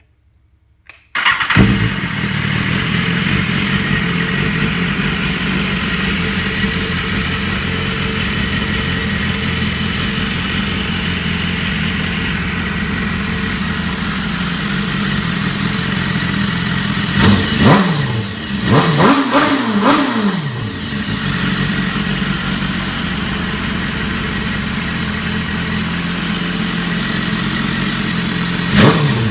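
2015 BMW S1000RR inline-four engine on its stock factory exhaust starting up about a second in, then idling steadily. The throttle is blipped several times in quick succession about two-thirds of the way through, and once more near the end.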